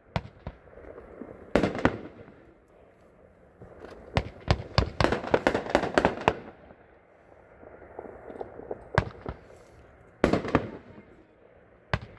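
Consumer firework cake firing, its shots bursting in the air as sharp reports with echoing tails: single reports near the start, a fast string of many reports from about four to six seconds in, then a few more spaced out toward the end.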